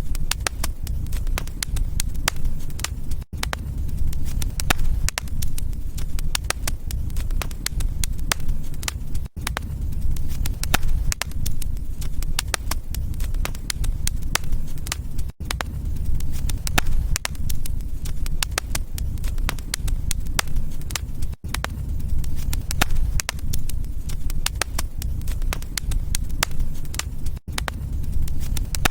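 Wood fire crackling, with a dense stream of sharp pops and snaps over a steady low rumble of the flames. The sound drops out for an instant about every six seconds.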